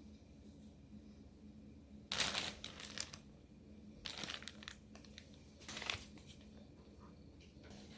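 Something crinkling as it is handled, in three short bursts about two, four and nearly six seconds in, with a fainter one near the end.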